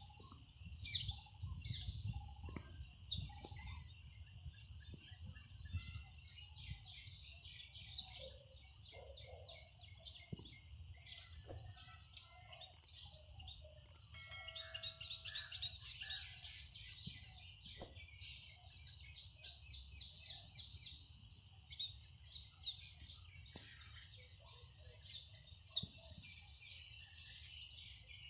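Small birds chirping and twittering in short scattered notes over a steady high-pitched insect drone, with a quick run of rapid notes about halfway through.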